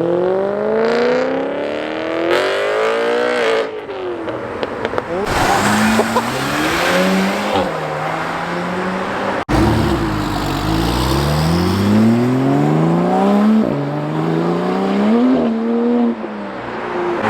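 Cars accelerating hard away one after another, engines revving in long rising sweeps. There is a sudden break about halfway, then more cars pull away the same way.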